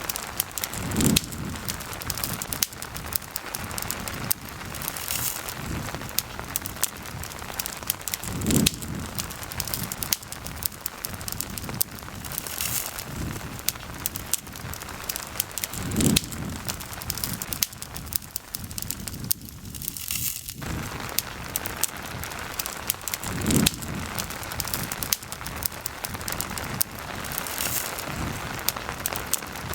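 Steady rain falling together with a campfire crackling and popping. A low, brief thump recurs about every seven to eight seconds.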